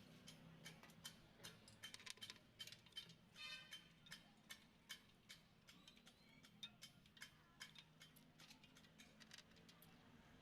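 Faint, irregular clicks and taps of hand tools on metal during clutch plate fitting, with a short buzzing rattle about three and a half seconds in, over a low steady hum.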